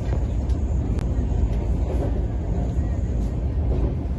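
Steady low rumble inside a moving Tejas Rajdhani Express passenger coach, its wheels running on the rails, with a few faint clicks.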